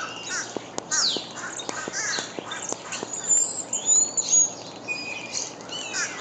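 Mixed chorus of wild songbirds: many overlapping short chirps, sharp chips and quick sliding whistles, with a few higher thin notes held briefly in the middle.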